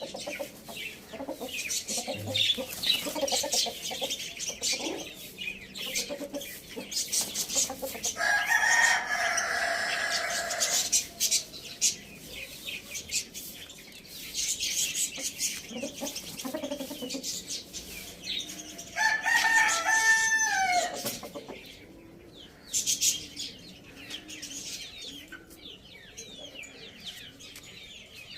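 Rooster crowing twice: one long crow about eight seconds in and another around twenty seconds that drops in pitch at its end. Hens cluck and small birds chirp throughout.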